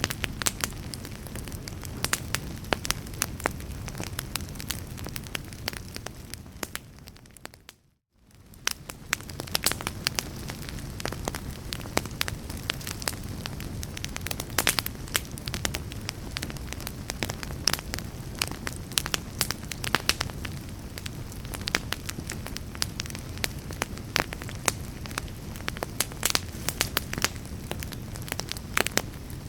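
Fire in a fireplace crackling, with a steady low rumble under frequent sharp pops and snaps. About eight seconds in it fades briefly to near silence and swells back.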